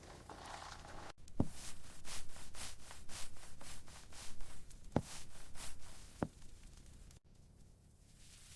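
Rhythmic rubbing or scraping strokes, about four a second, lasting some five seconds and then stopping abruptly.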